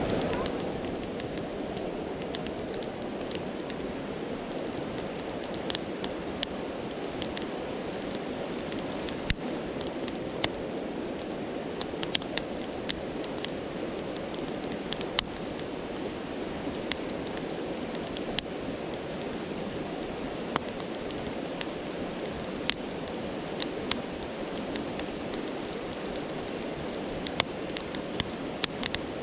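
Campfire crackling with irregular sharp pops over the steady rush of a flowing stream.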